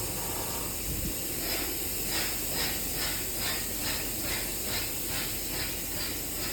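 PDQ Laserwash 360 Plus touchless car wash spraying high-pressure water: a steady, loud hiss, with a rhythmic swish pulsing about twice a second from a second and a half in.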